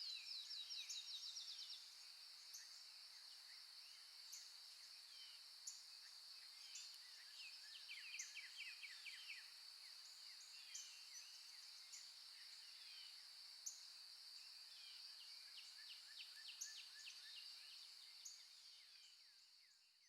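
Background nature recording of wild birds chirping, with quick rapid trills in three spells over a steady high-pitched drone. The whole track fades out near the end.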